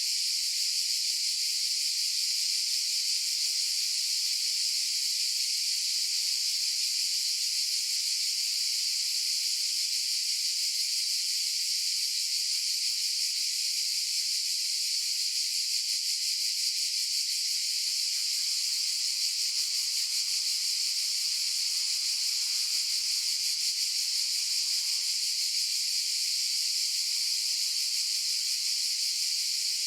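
Cicadas buzzing in a continuous high-pitched drone.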